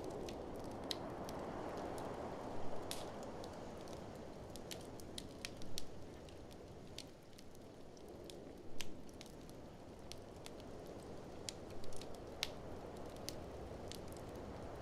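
Wood fire crackling, with sharp pops and snaps at irregular intervals, over a steady low rush of blizzard wind that eases a little midway and swells again near the end.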